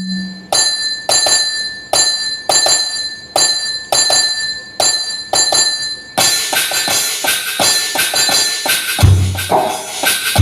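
Roland SPD-11 electronic percussion pad playing a steady percussion pattern, about three hits every two seconds, each with a bell-like ringing tone. About six seconds in, a dense high jingling fills in, and deep drum hits come in near the end.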